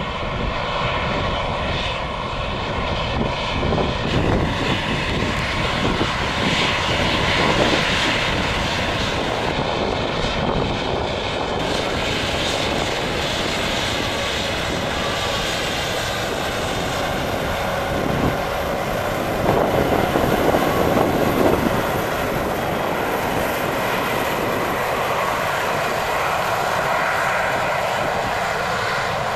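Airliner engines running at the airport, a steady rushing noise with a faint high whine that comes and goes twice, swelling a little about two-thirds of the way through.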